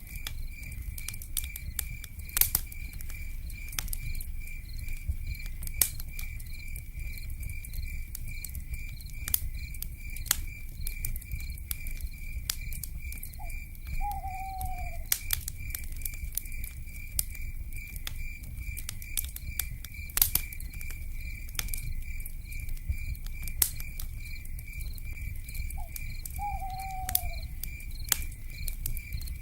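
Wood fire crackling with irregular sharp pops over a low rumble, under a steady, fast-pulsing insect trill. A short falling owl hoot comes twice, about midway and near the end.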